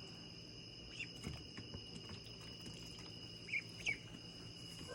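Quiet outdoor ambience: a steady high insect-like trill, a few faint ticks, and two short bird chirps about three and a half and four seconds in.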